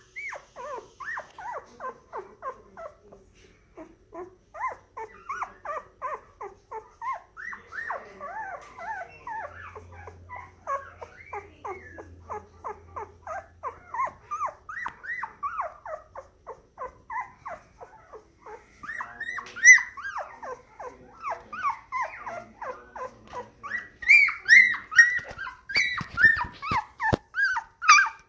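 Moyen poodle puppy whimpering in a steady run of short, high cries, two or three a second, growing louder in the last few seconds.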